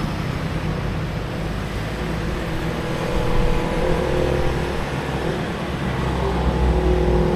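Motorcycle engine running steadily while riding, with wind and road noise; it gets a little louder about three seconds in.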